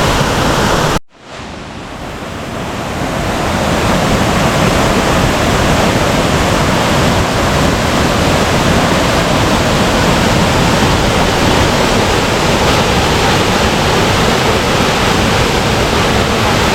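Waterfall pouring into a river, a loud, steady rush of water. The sound cuts out abruptly about a second in, then fades back up over the next few seconds.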